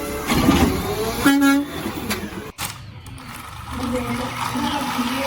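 Vehicle sounds with a short horn toot about a second and a half in, breaking off suddenly halfway through and followed by steady humming tones.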